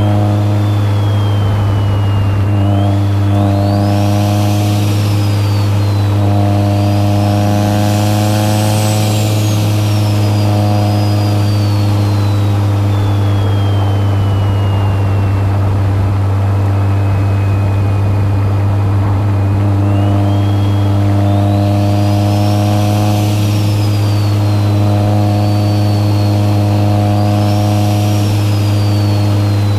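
Big-turbo Mitsubishi Lancer Evolution VII's 4G63 turbocharged four-cylinder engine droning steadily at cruise, heard from inside the cabin. Over it a thin, high turbo whistle rises and falls, climbing twice: once in the first third and again in the last third.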